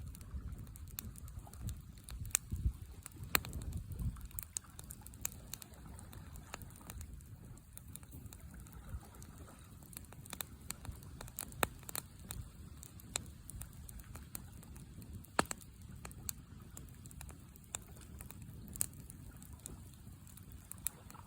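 Campfire crackling, wood popping in irregular sharp snaps, over a low rumble that is heavier in the first few seconds.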